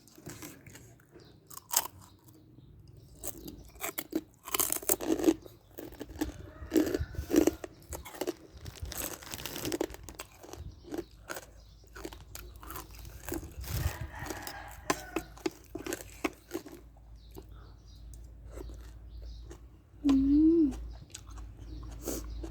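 Close-up chewing of crispy pork (moo krob): irregular crackling crunches of the crackling skin and wet mouth sounds. Near the end a short hummed "mm" rises and falls.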